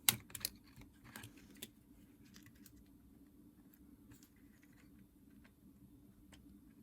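Small, sharp plastic clicks and taps from handling a Nintendo DS Lite during repair: a quick cluster in the first second and a half, then a few faint, scattered ticks.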